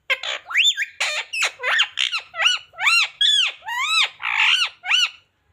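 Indian ringneck parakeet calling in a fast run of short, rising-and-falling squawks, about three or four a second, stopping shortly before the end.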